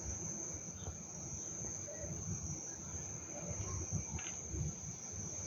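A steady, even, high-pitched insect drone, typical of a distant cicada or cricket chorus, over a low fluctuating rumble.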